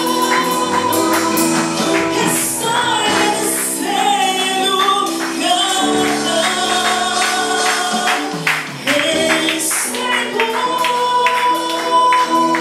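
Group of voices singing a worship song over instrumental accompaniment, with regular percussion strikes, likely a tambourine.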